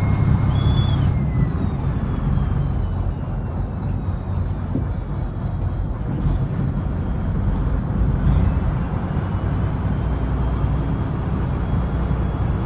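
Fishing trawler's diesel engine running steadily as a low rumble, with a faint high whine that slides down in pitch in the first couple of seconds and then holds steady.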